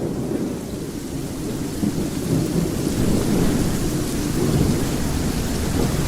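Steady rain with a continuous low rumble of rolling thunder, swelling a little after about two seconds.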